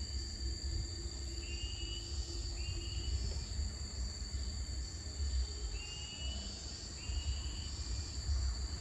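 Outdoor insect chorus, a steady high-pitched drone, with a bird giving four short rising chirps in two pairs. Wind rumbles on the microphone.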